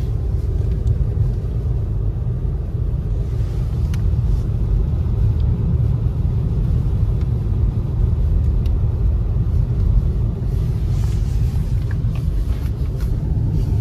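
Steady low rumble of a car driving on snow-covered roads, heard from inside the cabin: road and engine noise, with a brief swish near the end.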